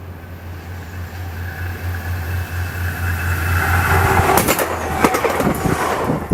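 A train approaching and passing along the track, getting steadily louder over a low steady hum, with a run of sharp clicks and clacks of wheels on the rails starting about four seconds in.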